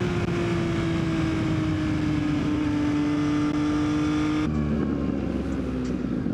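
Yamaha XSR900's inline-three engine and wind rush as the motorcycle decelerates, the engine note falling slowly. About four and a half seconds in, the wind hiss drops away and the engine settles into a low rumble as the bike slows.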